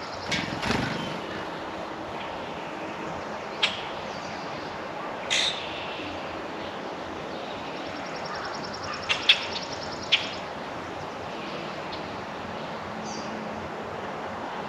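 Birds at a backyard feeder: a handful of short, sharp chirps and clicks scattered through a few seconds, with a faint high trill near the middle, over a steady outdoor background hiss.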